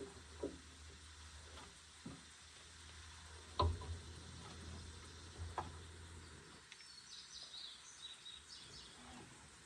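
Scattered light knocks and clicks of hand-tool work on a skid steer's hydraulic hose fittings, the loudest a little past a third of the way in, over a low steady hum that stops about two-thirds through. A bird chirps near the end.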